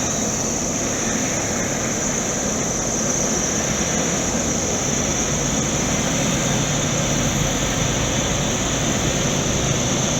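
Steady drone of a Caterpillar long-reach excavator's diesel engine running at a construction site, with a constant high hiss over it.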